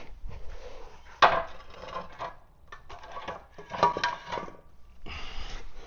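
Metal engine parts knocking and clinking as they are handled: a sharp knock about a second in, then scattered clicks and a brief metallic ring around four seconds in, as a turbocharger is offered up to a Kubota diesel's exhaust manifold.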